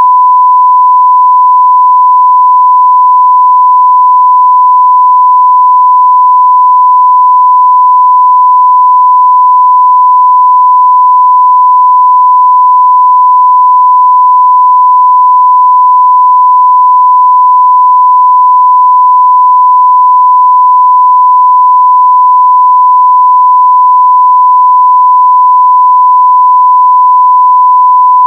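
A continuous 1 kHz sine-wave test tone at full level, one steady pitch with no change.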